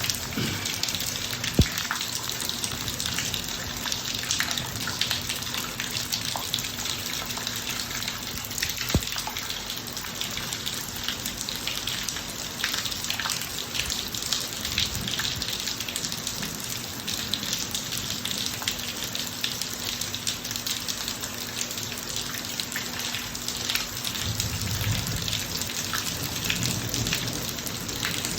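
Steady rain falling on a driveway, a dense hiss with individual drops ticking through it. Two sharp ticks stand out, about a second and a half in and again about nine seconds in, and a low rumble of thunder rises near the end.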